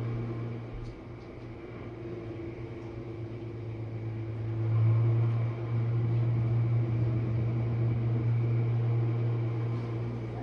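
Jenn-Air dishwasher running mid-cycle: a steady low hum of the wash pump motor over a hiss of spraying water, growing louder about four to five seconds in.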